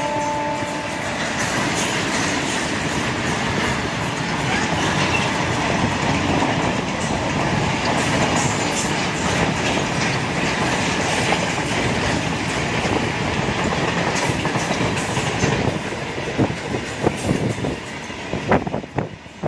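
Train running on the track, its wheels clattering over the rail joints, with the last of a horn note fading about a second in. Near the end comes a run of sharp clacks, and the noise drops away.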